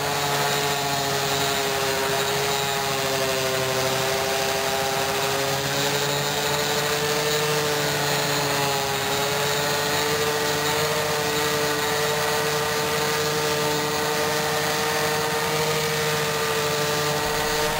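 Electric random orbital sander running steadily with a polishing pad on a chrome motorcycle exhaust pipe, its motor whine wavering slightly in pitch as it is pressed and moved.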